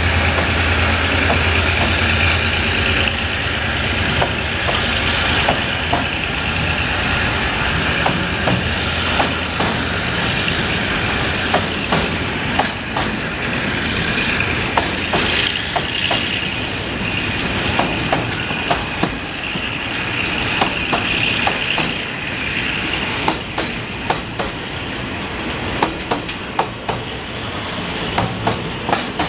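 Container freight train pulling out and rolling past, its wheels clicking over rail joints more and more often toward the end, with a high steady wheel squeal in the middle stretch. A low locomotive hum fades out in the first few seconds.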